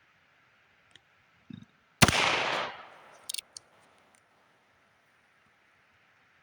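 A .22 rimfire single-action revolver, a Heritage Rough Rider, fires one shot about two seconds in: a single sharp crack that echoes for about a second. A few light clicks follow a second later.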